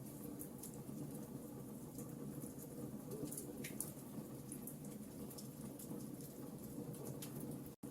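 Wood fire crackling in a fireplace: a steady low rumble of burning with frequent small, sharp crackles and pops scattered irregularly. The sound cuts out for an instant near the end.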